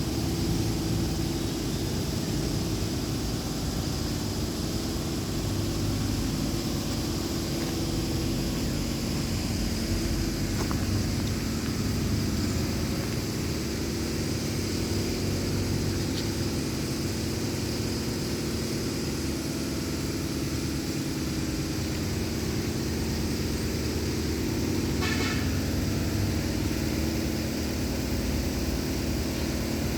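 Lovol LK354 tractor's diesel engine running steadily under a constant throttle, with a brief rattle near the end.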